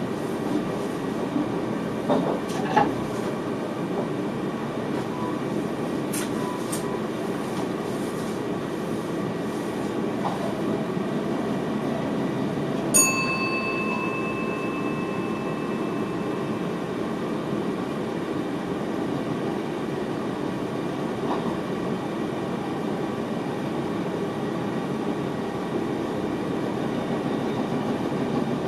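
Steady running noise of an NS VIRM double-deck electric train heard in the driver's cab: the rumble of wheels on track at speed. A few faint clicks come in the first several seconds, and about halfway through there is one sharp clank with a short ringing tone.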